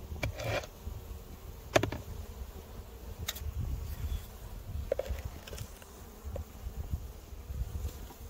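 Honeybees buzzing around an opened or cleared hive, punctuated by several sharp knocks and clicks, the loudest about two seconds in.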